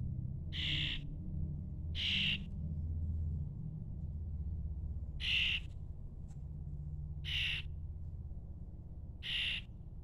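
Fledgling songbird giving five short, harsh, raspy calls spaced a couple of seconds apart, over a low steady hum.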